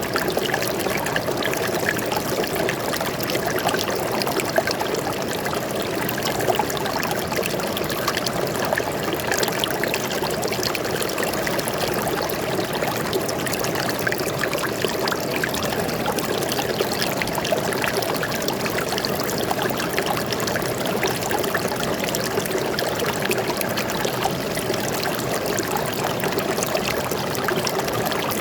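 Stream water flowing steadily, a continuous, even rush of water with many small splashes and trickles in it.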